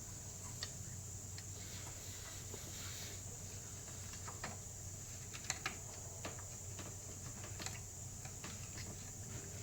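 Sparse, irregular light clicks and taps of hand tools working on the engine's coil packs and spark plugs, over a steady low hum.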